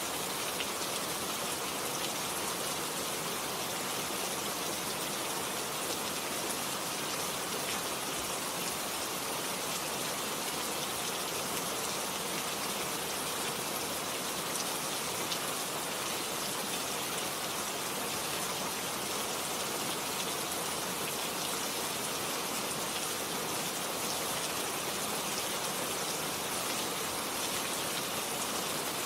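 Steady rain falling, a dense patter of drops hitting a surface with an even hiss.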